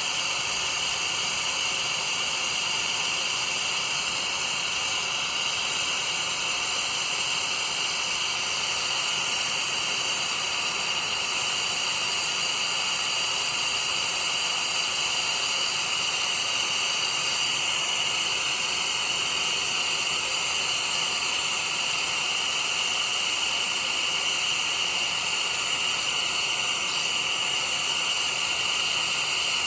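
Brazing torch flame hissing steadily as it heats a copper air-conditioner pipe joint.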